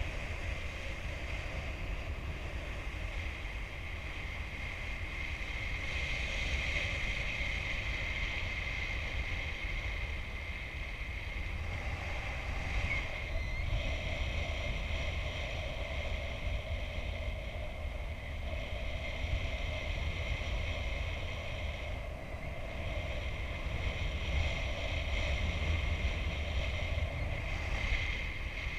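Airflow buffeting the microphone in paraglider flight, a steady low rumble with a thin steady whistle running over it that fades and returns.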